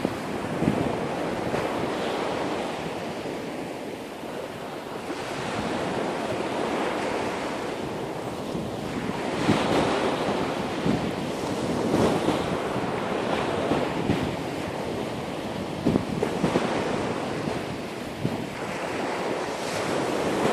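Sea surf breaking and washing on a beach, swelling and easing every few seconds, with wind buffeting the microphone.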